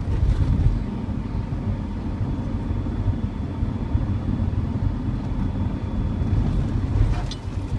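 Car running on the road, heard from inside the cabin: a steady low engine and road rumble.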